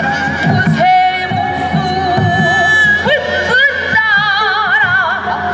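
Korean traditional ritual-style music: a melody line that bends and wavers widely, over a steady drum pattern.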